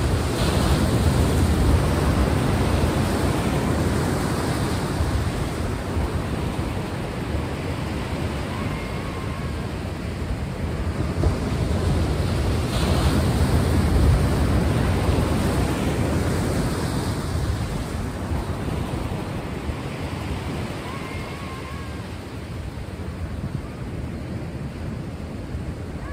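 Ocean surf: a steady rush of waves washing on a shore. It swells and ebbs slowly over several seconds.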